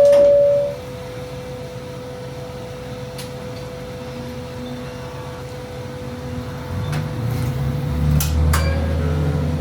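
The tail of a two-note chime dies away in the first second, leaving a diesel railcar's engine idling with a faint steady whine. From about seven seconds in, the engine runs up louder with a few sharp clicks, as the railcar takes power.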